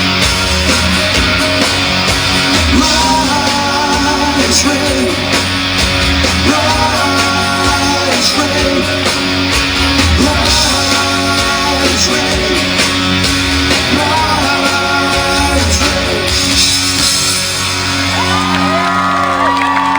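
Live rock band with guitar and drums playing out the end of a song while the singer holds long wordless notes. Near the end the music thins and the crowd starts whooping and cheering.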